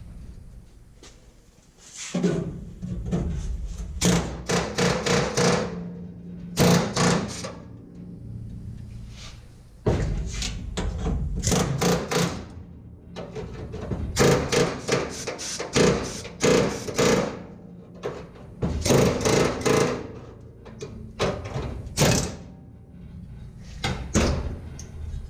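A hammer striking the sheet steel of a car body in runs of quick blows, about four a second, each blow ringing briefly, with short pauses between the runs.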